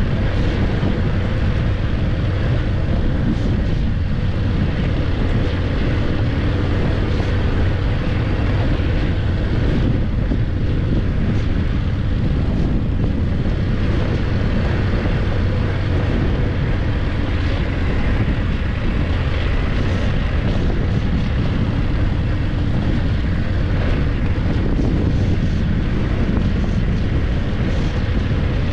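BMW F850GS parallel-twin engine running steadily under way, mixed with wind rush on the camera microphone.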